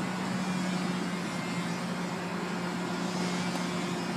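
Steady mechanical hum holding one constant low pitch, over an even hiss.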